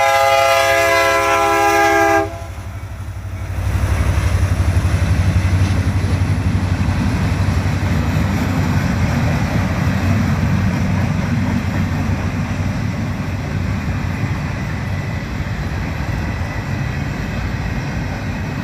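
A BNSF freight train's air horn sounds a multi-note chord that cuts off about two seconds in. A loud, low, steady rumble of the train rolling on the rails builds a second later and slowly eases off: a freight train of empty well cars.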